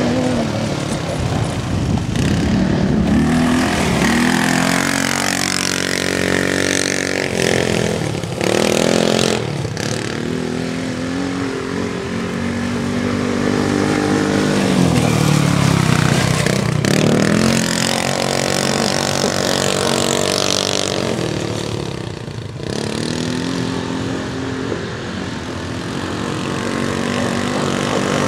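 Polaris RZR 170 side-by-side's small single-cylinder four-stroke engine driven hard, its pitch rising and falling again and again as the throttle is opened and eased off.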